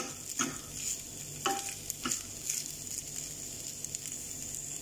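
Shredded boiled chicken sizzling in a teaspoon of oil in a small frying pan while a metal spoon stirs and scrapes it, about six quick strokes in the first two and a half seconds. After that the steady sizzle goes on alone.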